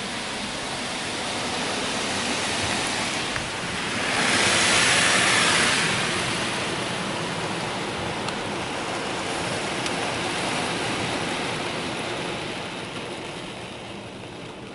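Touchless car wash gantry blasting the car, heard from inside the cabin: a steady rushing hiss that swells loudest between about four and six seconds in as the arm passes close, then eases off.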